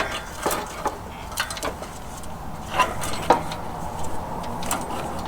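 Scattered light clicks and knocks, about seven, from parts being handled during hand work on a truck.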